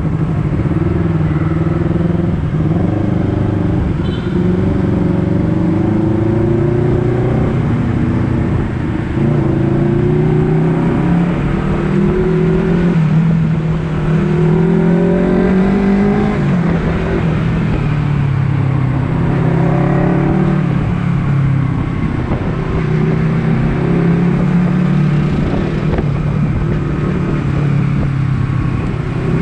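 Honda CBR250RR motorcycle engine running under load while riding, its pitch rising repeatedly and dropping back as it pulls through the gears, then holding steadier in the second half.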